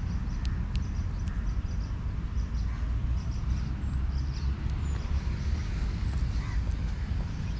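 Outdoor ambience: a steady low rumble, with birds calling faintly over it.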